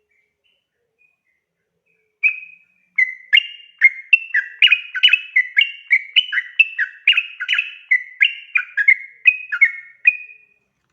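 Sooty-headed bulbul (trucukan) singing a long, fast run of loud chirpy notes that jump back and forth between a higher and a lower pitch, about three a second. It starts about two seconds in with a single call and stops just before the end.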